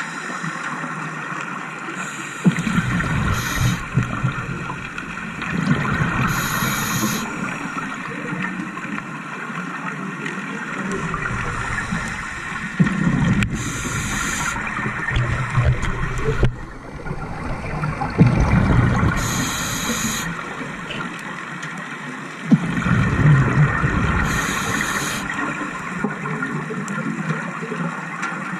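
Scuba diver breathing underwater through a regulator. Each of about five breaths, roughly five seconds apart, brings a short hiss and a gurgling rush of exhaled bubbles, over a steady underwater hiss.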